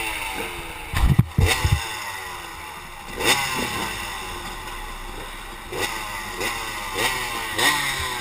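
An engine running, its pitch falling again and again with repeated rises in revs, and a few dull knocks about a second in.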